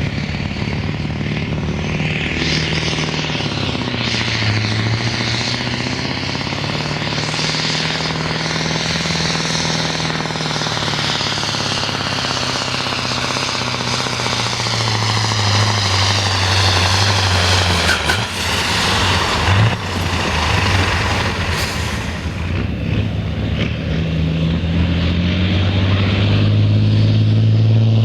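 Sport-class pulling truck's engine running hard under load, its pitch rising and falling and climbing again near the end.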